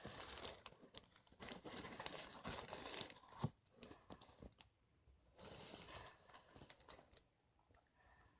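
Faint rustling and crinkling of a cardboard box and its packaging being handled, in two stretches with a sharp tap about three and a half seconds in, then near silence.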